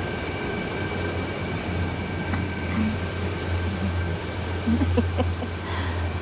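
Motor yacht's inboard engines idling, a steady low hum, with a few light knocks and squeaks about five seconds in.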